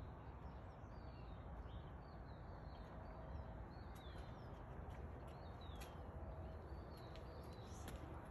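Faint ambient hum with small birds chirping now and then, in short high chirps, and a few light clicks.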